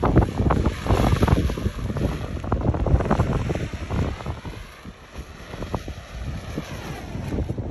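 Strong gusting wind buffeting the microphone in a low rumble, easing a little about halfway through and picking up again near the end.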